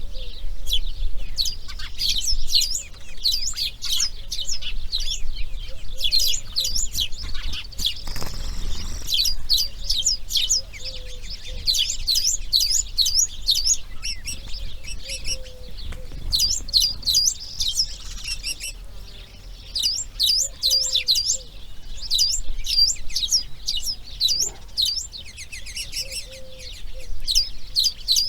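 Birds chirping in a dense, continuous chorus of many quick, high-pitched notes, with a brief rushing noise about a third of the way in.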